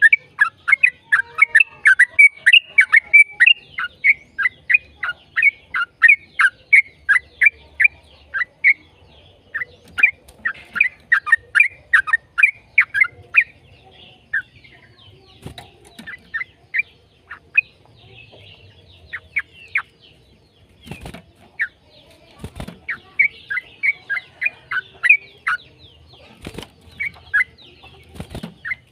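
Yellow-vented bulbul (trucukan) singing a long run of rapid, short, falling chattering notes, several a second, thinning out in the middle and picking up again near the end. A few sharp clicks are heard in between.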